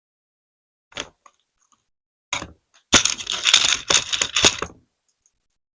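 A click and a knock, then about two seconds of loud clattering of small plastic LEGO pieces striking and scattering, as when a toy car crashes and breaks apart.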